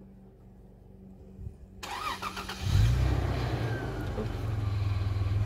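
105 Series Toyota Land Cruiser's engine cranking and firing about three seconds in, then running at a steady idle. It is starting after sitting unused for about a year.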